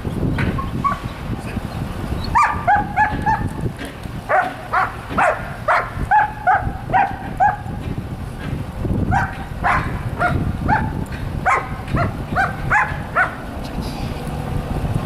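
A dog barking in four quick runs of short, sharp barks, about three a second, with gaps between the runs.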